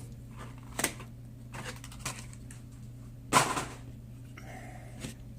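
Handling of a small die-cast toy car and its packaging: a few light clicks and taps, with a short crackling rattle about three seconds in, over a low steady hum.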